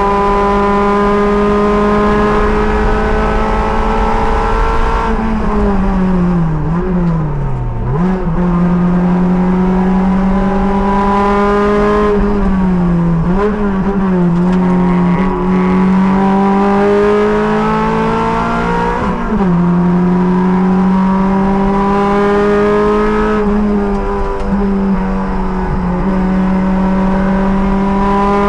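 Race car engine at high revs, its pitch climbing slowly down each straight, then dropping with brief up-and-down revs as the driver brakes and downshifts for the corners, four times.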